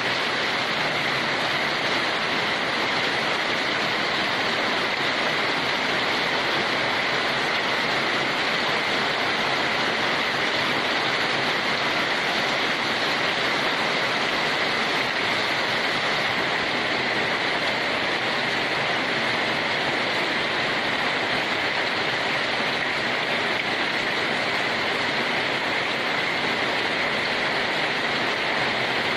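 Steady, heavy rain falling as a continuous even hiss, with no single drops or thunder standing out.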